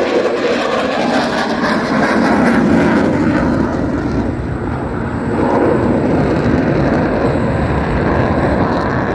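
Jet noise from an F-22 Raptor's twin Pratt & Whitney F119 turbofans as the fighter manoeuvres overhead: a loud, rushing roar that swells twice, a few seconds apart.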